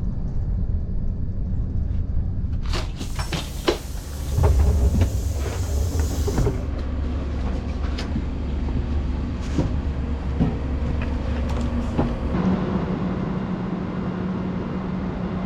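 Passenger train in motion: a steady low rumble with scattered clicks and knocks, the sound changing abruptly a few times as separate shots are cut together.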